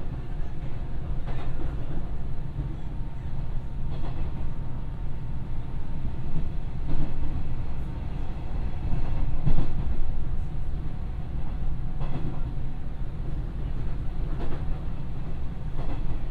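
Cabin running noise of a Hanshin 8000 series electric train at speed: a steady rumble of the wheels on the rails, with a clack every few seconds as the wheels cross rail joints.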